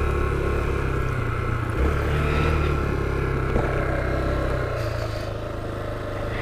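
Honda XR250L's single-cylinder four-stroke engine running on the move; its note steps up about two seconds in and eases off somewhat near the end.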